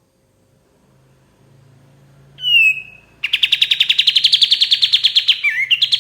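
Olive-winged bulbul (kapas tembak) singing: a short falling whistle about two and a half seconds in, then a fast, even trill of about a dozen notes a second that carries on to the end.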